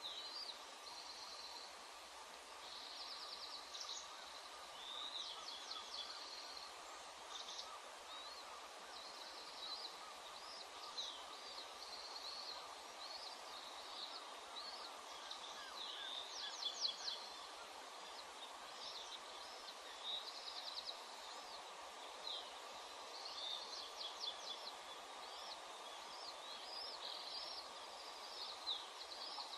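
Birds calling: high-pitched chirps, short trills and quick chattering series, repeated irregularly throughout, over a steady background hiss.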